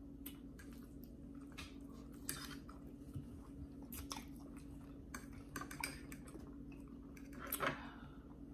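Close-miked chewing and biting of food, with many small wet mouth clicks and smacks and a somewhat louder one near the end. A steady low hum runs underneath.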